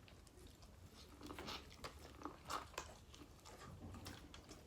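Faint eating sounds close to the microphone: scattered small crunches, clicks and chewing.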